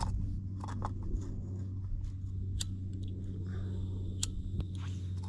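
A small gas camping stove being handled and lit: a string of sharp, irregular clicks and small knocks over a steady low hum.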